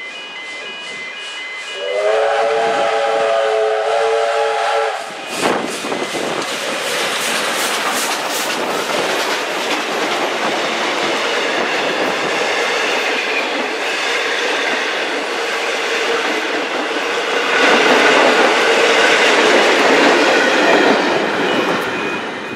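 Heritage EMD diesel-electric locomotives X31 and B74 sound a chord horn, which drops to a louder, lower chord about two seconds in and stops about five seconds in. The locomotives then pass close by with engine noise and wheel clicks over the rail joints. Passenger carriages follow, rolling by with a steady clickety-clack that grows loudest near the end.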